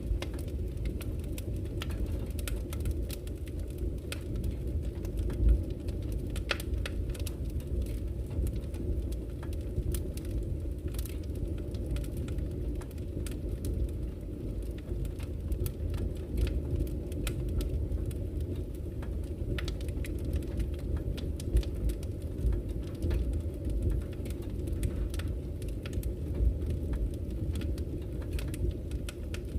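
Campfire crackling with scattered sharp pops over the steady low rush of a flowing river.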